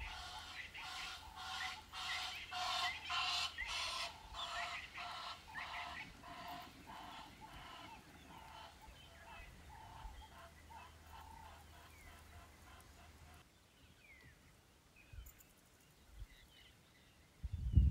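A bird calling in a rhythmic series of harsh notes, about two a second, loudest at first and growing fainter until it breaks off about two-thirds of the way through. Afterwards there are faint scattered chirps, then a loud low thump near the end.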